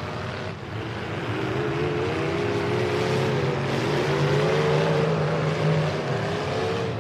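Demolition derby trucks' V8 engines revving and running, their pitch wandering up and down, getting a little louder toward the middle.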